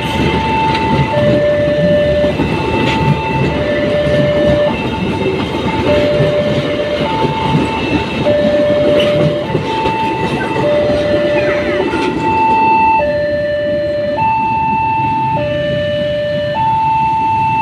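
Level crossing warning alarm sounding two alternating tones, high then low, each held about a second, over the rumble and wheel clatter of a passing train.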